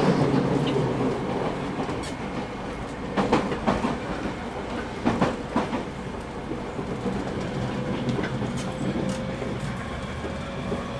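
A JR East 209 series 3000 electric commuter train running, heard inside motor car MoHa 208-3002. The running gear gives a steady low rumble, and the wheels clack over rail joints in two quick clusters, about three and five seconds in.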